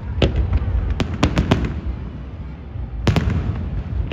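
Aerial fireworks bursting over a continuous low rumble. There is a sharp bang a quarter second in, a quick run of four cracks around a second in, and another heavy bang about three seconds in.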